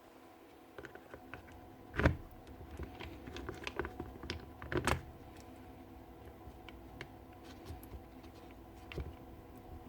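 Parts of a stripped-down SDS hammer drill and tools being handled on a workbench: scattered light clicks and taps, with louder knocks about two seconds in and again near five seconds.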